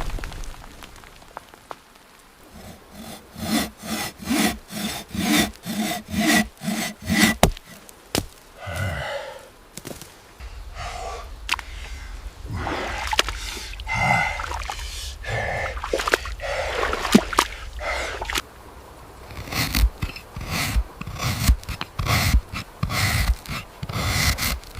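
Wood being worked by hand. A run of rhythmic strokes, about three a second, is followed by scattered knocks and rubbing, then another fast run of strokes near the end.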